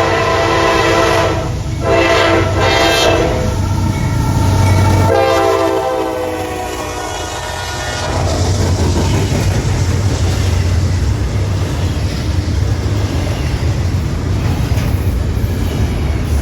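Norfolk Southern AC44C6M diesel locomotive sounding its multi-note air horn in long blasts with short breaks, the last blast dropping slightly in pitch as it passes. From about eight seconds in, the horn gives way to the steady rumble of the locomotive and its train of intermodal cars and autoracks rolling by on the rails.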